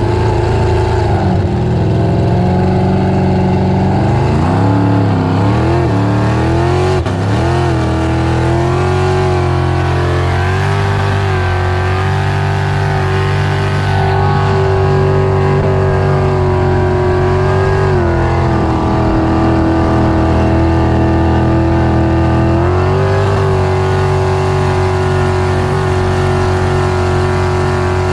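Supercharged 468 big-block V8 with an 8-71 blower, in a 1978 Tahiti boat, running under way. The revs rise and fall unevenly for the first several seconds, then hold steady, drop briefly about two-thirds of the way through and climb again.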